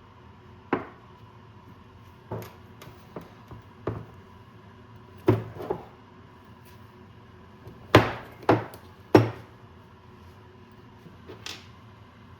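A dozen or so irregular knocks and clacks of tools and parts being handled and tapped during a dirt bike shock linkage rebuild, the loudest three close together about eight to nine seconds in.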